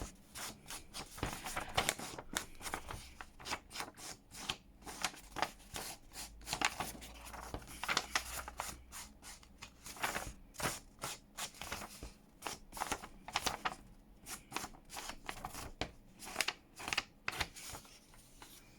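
Paper edges being inked: an ink pad swiped again and again against paper, making a rapid, irregular run of short, scratchy strokes.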